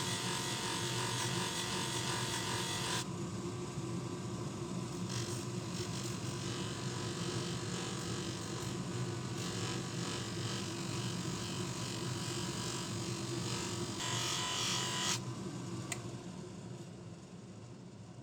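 Small electric bench motor running with a steady hum, with several stretches of abrasive hissing as work is pressed against it. The hissing stops about fifteen seconds in and the sound fades near the end.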